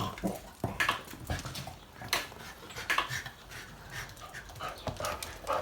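A dog panting after play, in short, irregular breaths.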